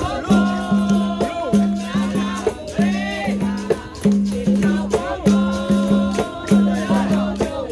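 Capoeira roda music: a berimbau plays a repeating rhythm of held and short notes with a shaken rattle, under voices singing.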